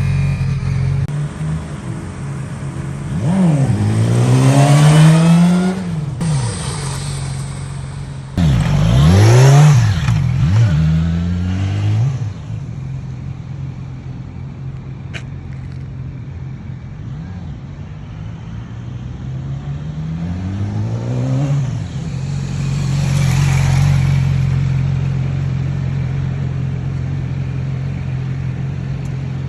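Motorcycle engine running under way, its pitch climbing in three spells of acceleration: a few seconds in, about nine seconds in, and about twenty seconds in. It settles to a steady note between them.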